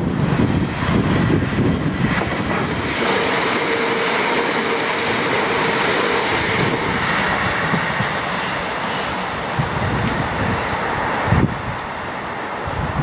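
Southern Class 377 electric multiple unit passing close at speed: a rush of wheels on rail with a steady whine, easing off in the last few seconds. A low rumble of wind on the microphone comes first, and there is a single knock near the end.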